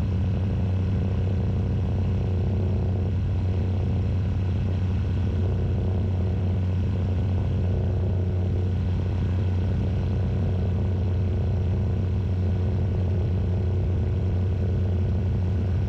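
Steady drone of a Tecnam Sierra light sport airplane's Rotax 912 engine and propeller in level flight, heard from inside the cockpit, with a strong low hum and no change in pitch.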